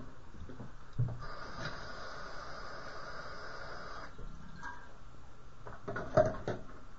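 A knock, then about three seconds of running water with a steady hiss that cuts off abruptly. A few clicks and knocks come near the end.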